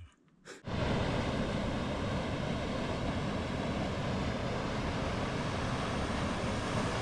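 Waterfall: a steady rush of falling water that starts abruptly a little under a second in.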